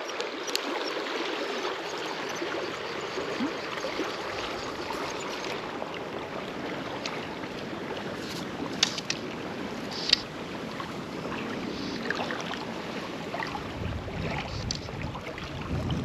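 Steady rush of flowing river water, with a few short sharp clicks around the middle.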